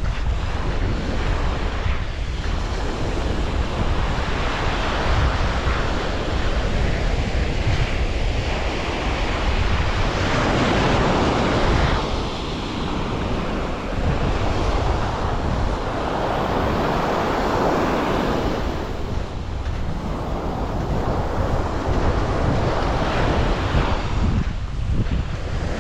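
Sea waves breaking and washing up the shore, surging louder about ten seconds in and again around seventeen seconds, with wind buffeting the microphone.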